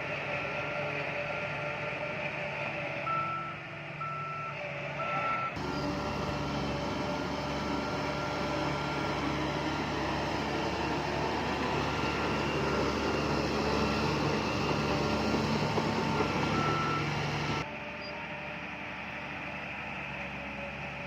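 Reversing alarm of a heavy earthmoving machine beeping at one steady pitch over its running engine; the engine noise grows louder through the middle.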